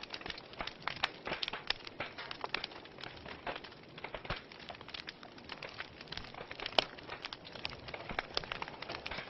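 Wood fire crackling, with many irregular sharp pops and snaps over a soft steady hiss; one louder pop about seven seconds in.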